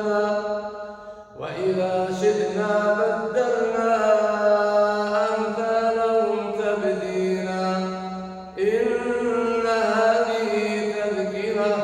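A man's voice reciting the Quran in melodic tajwid style, holding long drawn-out notes. He breaks off briefly for breath about a second in and again past the eight-second mark.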